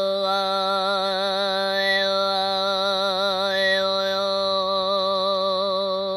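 Overtone throat singing (khöömii): one voice holds a steady low drone while a whistling overtone melody wavers above it, twice stepping briefly higher.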